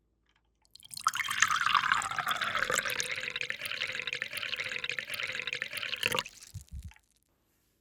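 A small stream of water runs into a container for about five seconds, then cuts off suddenly; a couple of soft knocks follow.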